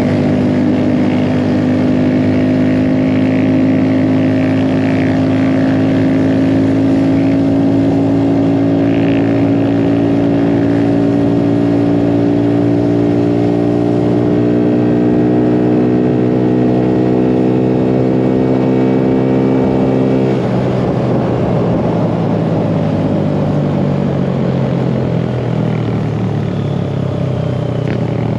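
Small mini bike engine running under steady throttle while riding, its pitch climbing slowly for about twenty seconds, then dropping suddenly as the throttle is eased and carrying on at a lower pitch.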